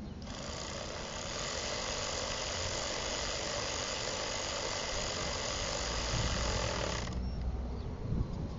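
A steady hiss that starts just after the beginning and cuts off suddenly about seven seconds in.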